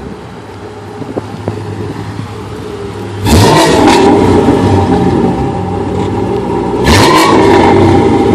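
2010 Mustang GT's 4.6-litre V8 through an off-road X-pipe and Super 10 mufflers, idling and then revved hard twice, about three seconds in and again near the end, each time climbing quickly and held high before easing off.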